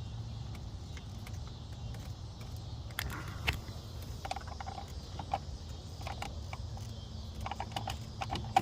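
Scattered light clicks and knocks of hands handling hoses and parts in a truck's engine bay, over a steady low hum.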